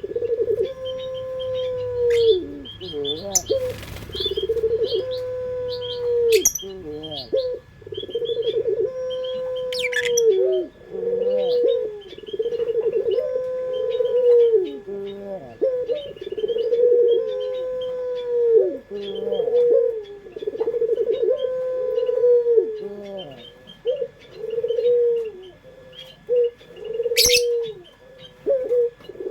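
Puter doves (Barbary doves) cooing: drawn-out coos held on one pitch and dropping at the end, repeating about every two seconds, some overlapping. Faint short chirps sound above them, and there is one sharp click near the end.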